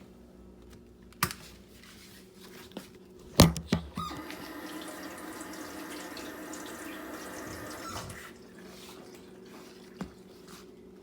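Kitchen tap water running into a sink for about four seconds, then shut off suddenly. A sharp clatter comes just before it, with a few lighter knocks around it.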